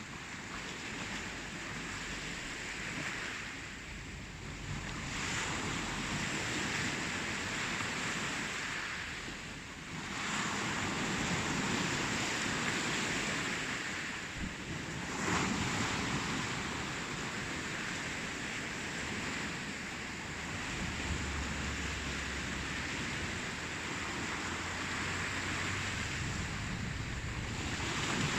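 Ocean surf: waves breaking and washing ashore in a continuous hiss that swells and eases every few seconds.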